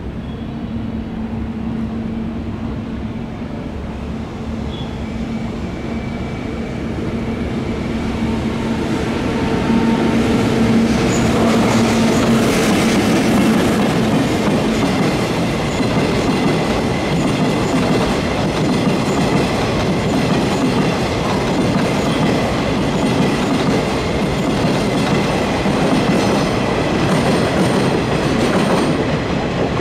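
Freight train hauled by a JR EF65 electric locomotive passing close, carrying new 12-600 subway cars. Wheels clack over the rail joints amid a steady rumble, and it grows louder about ten seconds in as the cars come by, with some high-pitched wheel squeal.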